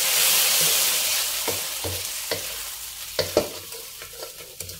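Pork belly pieces sizzling in a wok of caramelised coconut palm sugar with pounded garlic, coriander root and black pepper, stirred with a wooden spatula. The sizzle dies down gradually, and the spatula knocks against the wok several times, loudest about three seconds in.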